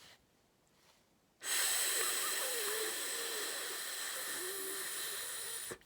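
A person imitating a snake with one long hiss, held for about four seconds, starting about a second and a half in.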